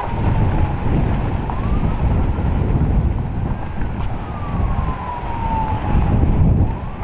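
Strong wind buffeting the microphone, with an emergency vehicle's siren wailing fainter behind it, its pitch slowly falling and rising.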